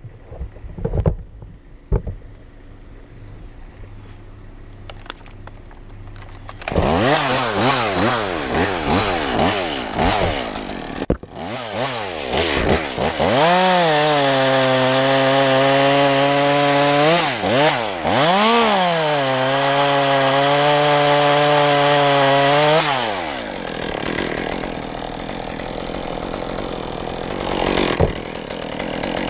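A gas chainsaw starts about seven seconds in and is revved up and down. It is held at high speed twice, then drops back to a lower steady idle, and revs up again near the end.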